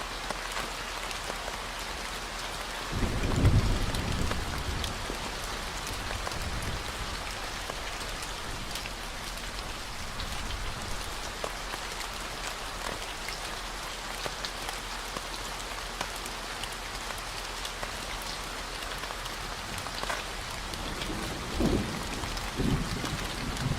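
Steady rain falling, layered over a continuous low 40 Hz tone. A deep rumble swells about three seconds in, and shorter low rumbles come near the end.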